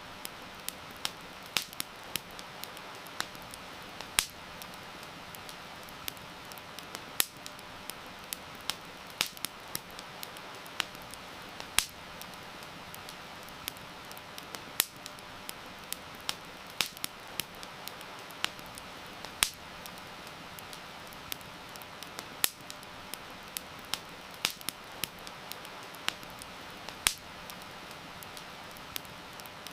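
Wood fire crackling, with frequent irregular sharp pops and snaps, over a steady hiss of heavy rain.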